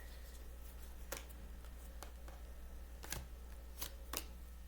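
Tarot cards being handled: a few light card flicks and taps, four or so spread through the stretch, over a steady low hum.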